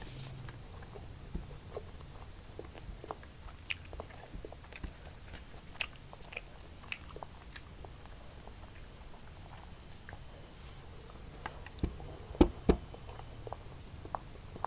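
Close-miked chewing of fried rice, with scattered wet mouth clicks and smacks, and a few louder knocks near the end.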